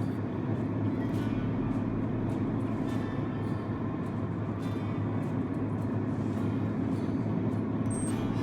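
Truck driving on the road: a steady low engine drone and road rumble.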